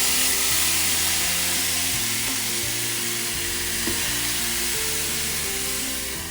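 Frozen beef patties sizzling on the hot grill plate of a Ninja Foodi Grill, a steady hissing fry, with background music underneath.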